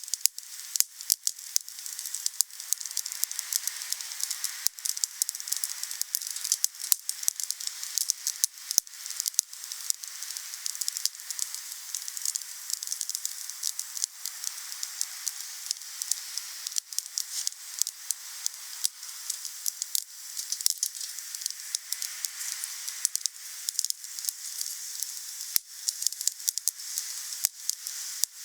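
Wood fire burning: dense, irregular crackling and popping over a steady hiss of burning wood.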